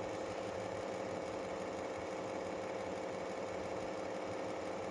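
A steady machine hum at a constant pitch, unchanging throughout.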